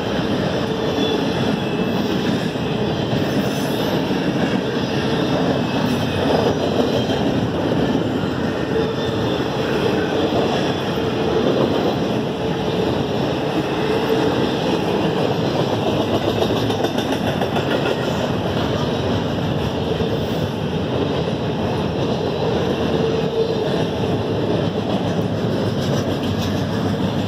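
Double-stack container train's well cars rolling past close by: a steady, unbroken noise of steel wheels running on the rails.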